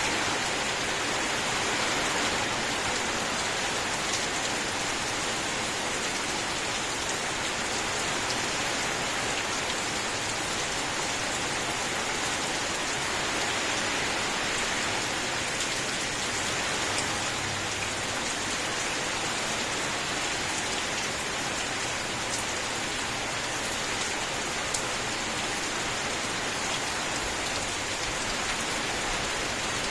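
Steady rain falling, a continuous even hiss with a few separate drop ticks standing out now and then.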